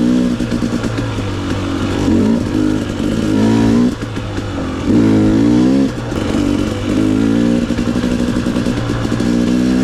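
Off-road vehicle engine being ridden, revving up and dropping back over and over as the throttle opens and closes and the gears change.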